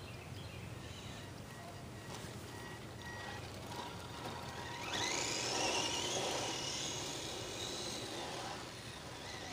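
Electric drive of a radio-controlled short course truck whining as it runs; about five seconds in the whine gets louder and rises in pitch, then fades away.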